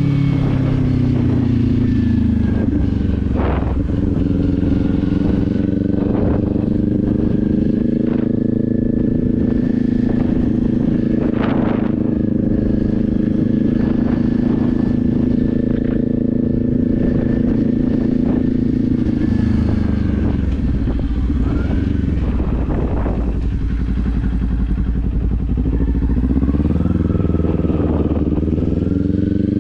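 Kawasaki Z400's parallel-twin engine riding along. Its pitch drops at first as it slows, holds steady at cruising speed, falls to a low rumble around twenty seconds in, then climbs again near the end as it accelerates. Wind rumbles on the microphone underneath.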